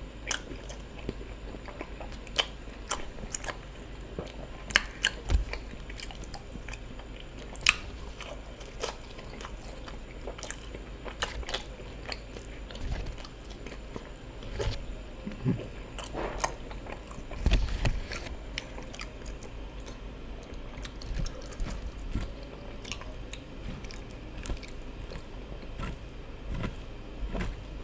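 Close-miked eating sounds of a person eating ofada rice and stew: chewing and biting, with irregular wet mouth clicks and smacks.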